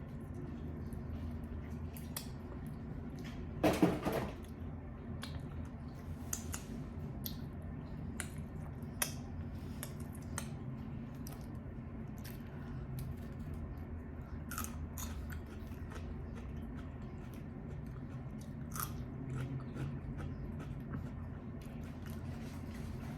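A person biting and chewing fried chicken wings close to the microphone, with many small wet, crunchy clicks. There is one louder burst about four seconds in.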